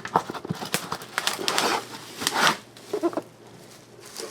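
Product packaging being handled and opened by hand: irregular rustling, scraping and small clicks, busiest in the first half, with a brief pitched squeak about three seconds in.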